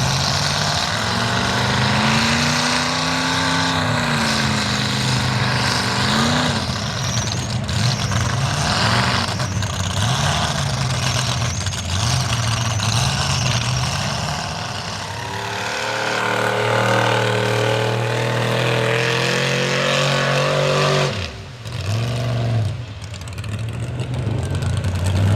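Mega truck engine revving through a mud bog, its pitch rising and falling over and over, then holding higher for several seconds before dropping sharply near the end and climbing again.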